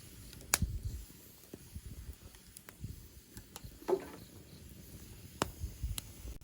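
Wood campfire burning, with irregular sharp crackles and pops over a low rumble of the flames; the loudest pops come about half a second in, around four seconds in and near five and a half seconds.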